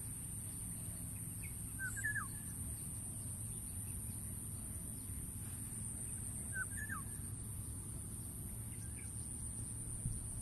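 A bird calls twice, a few seconds apart, each call a quick pair of notes sliding downward, over a steady low outdoor rumble and a constant high hiss.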